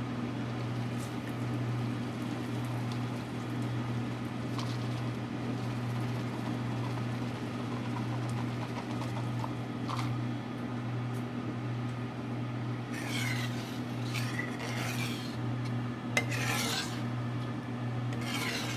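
A steady low hum runs underneath, with a series of short rasping, scraping strokes in the last few seconds as Parmesan is worked into the cream sauce in the pan.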